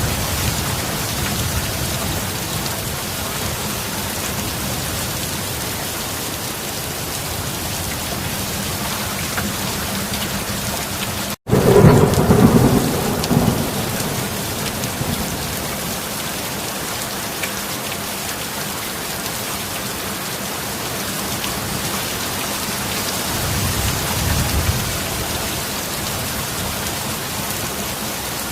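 Steady heavy rain with thunder. About halfway through, the sound drops out for an instant, then a loud thunderclap rumbles for about two seconds. A softer roll of thunder follows near the end.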